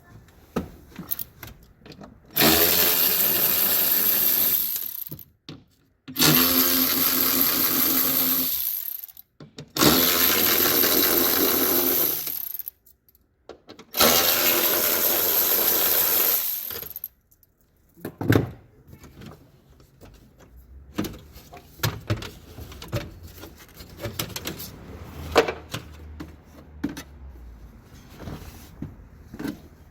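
Power tool running in four bursts of about three seconds each, followed by light clicks and knocks of parts being handled.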